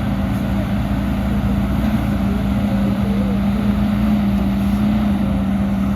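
Heavy diesel earthmoving machinery running steadily, a constant engine hum over low rumble with no let-up.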